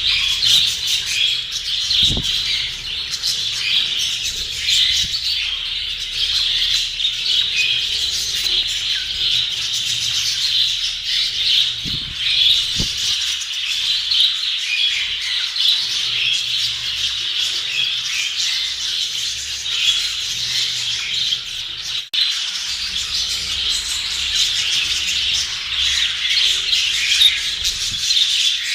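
A group of budgerigars chattering continuously in a dense mix of chirps, with a brief break about 22 seconds in.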